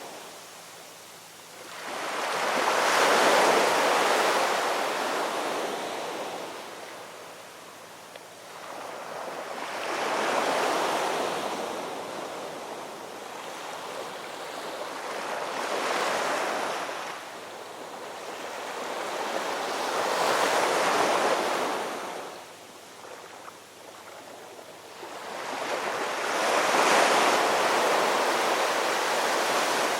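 Ocean waves washing onto a shore, five waves in turn, each swelling over a couple of seconds and then drawing back before the next.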